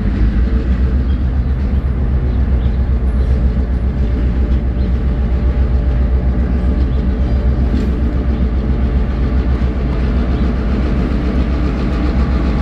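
Diesel locomotive engine running, a loud, steady low drone.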